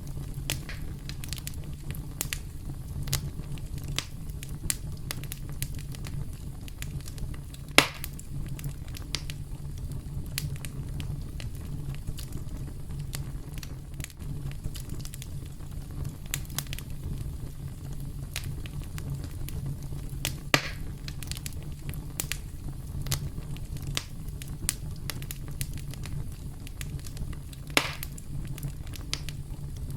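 Campfire burning with a steady low rumble and constant scattered crackling, with sharper wood pops about 8, 20 and 28 seconds in.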